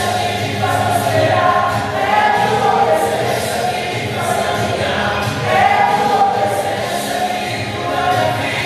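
Choir singing a gospel hymn in sustained phrases over a steady low instrumental backing.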